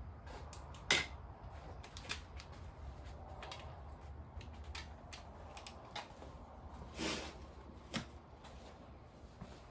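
Scattered metal clicks and clinks of hand tools and sockets being handled and fitted, with a sharper clank about a second in and a short clatter about seven seconds in.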